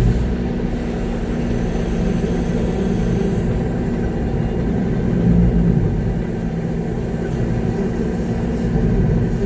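Concrete mixer truck's diesel engine running steadily, heard from inside the cab, with the drum turning to discharge concrete.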